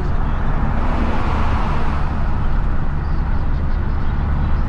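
Isuzu FRR90 truck's four-cylinder diesel engine running steadily while driving, a low drone under road and traffic noise. A rush of noise swells about a second in and fades by the middle.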